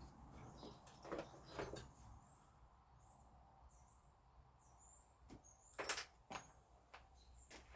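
Near silence in a workshop, broken by a few faint knocks and clicks, the loudest about six seconds in, with faint high chirps scattered throughout.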